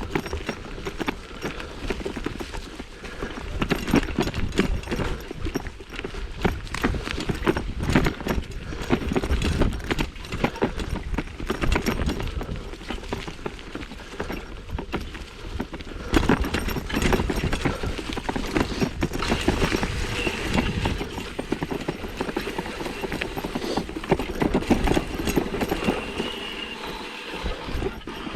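1987 Stumpjumper mountain bike rattling and clattering over rough trail: a continuous run of irregular knocks and rattles.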